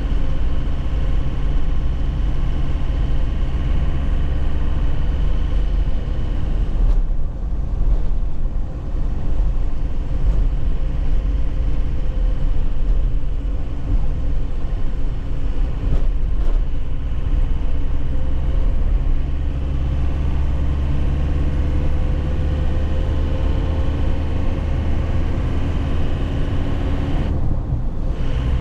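2001 Nissan Cabstar light truck's diesel engine running under way, heard from inside the cab over a low road rumble, with occasional sharp knocks and rattles from a rough road surface. The engine sound eases briefly about seven seconds in and again near the end.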